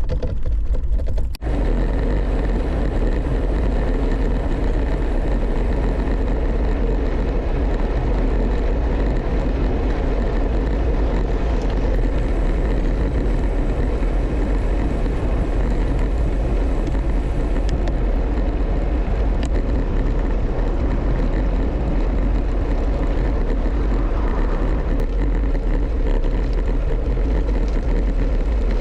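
Wind rushing over the microphone, with road noise, while riding a Brompton folding bicycle fast along a road: a loud, steady rush heaviest in the low end, after a brief break about a second in.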